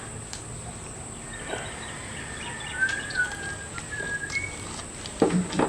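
Small birds chirping in short thin calls over rural outdoor background, with a few faint clicks. A louder low animal call begins near the end.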